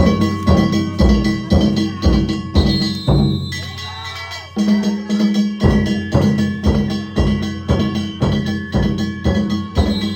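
Danjiri festival music: drums and hand-struck metal gongs (kane) beaten in a fast, steady rhythm, with the gongs ringing on. There is a short break in the beat about four seconds in.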